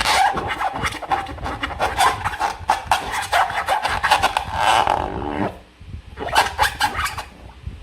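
Sticky slime squished and worked by hand, making dense wet crackling and squelching. It comes in two bouts, with a short pause about five and a half seconds in.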